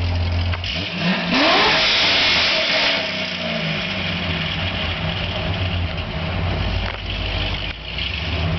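C6 Corvette Z06's 7.0 L LS7 V8 with catless long-tube headers and stock exhaust: idling, then revved once about a second in, the pitch rising quickly to a loud peak and falling back over a couple of seconds to a steady idle.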